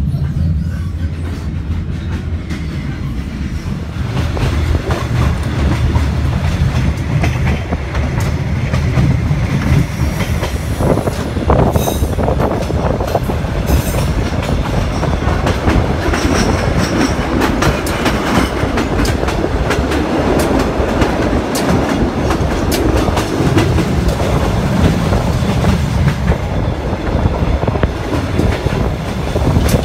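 Passenger train running along the track, heard from an open window of the carriage: a steady rumble with the clickety-clack of wheels over rail joints, getting louder about four seconds in. A few brief wheel squeals come through around the middle.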